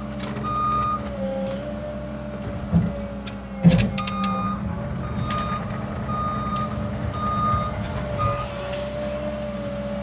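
Cat 306 excavator working, its diesel engine running steadily under a wavering hydraulic whine, with a beeping alarm sounding in a regular on-off pattern. Two sharp knocks come about three and four seconds in.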